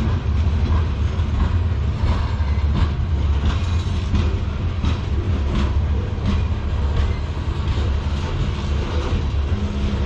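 Freight train cars rolling past: a steady heavy low rumble with irregular sharp clicks of the wheels going over rail joints.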